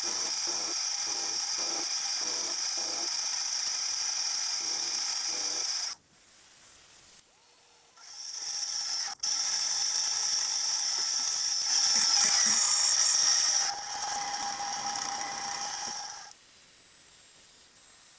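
Metalworking machine tool running with a steady high whine, stopping about six seconds in and starting again a couple of seconds later before cutting off near the end.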